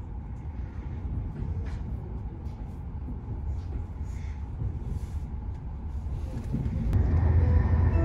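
Low, steady rumble of an E7/W7-series Shinkansen running, heard inside the passenger cabin. It grows louder near the end.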